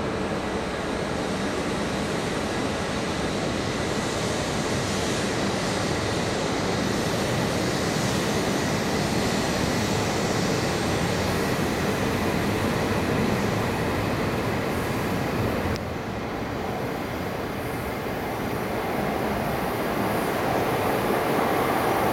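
E5 series Shinkansen train pulling out of a station platform: a steady rumble and rush of the moving train. It dips slightly about two-thirds of the way through and builds again near the end.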